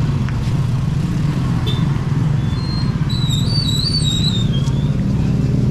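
Street traffic: a motor vehicle engine running steadily with a low hum. About three seconds in, a high wavering whistle-like tone sounds for about a second and a half.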